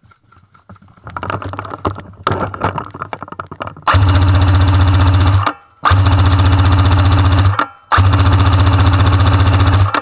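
Airsoft M60 support gun firing long full-auto bursts, a rapid, even rattle of the gearbox cycling. The bursts start about four seconds in and each lasts a second and a half to two seconds, broken by short pauses, with a fourth starting near the end. Before them come scattered clicks and rattles of handling.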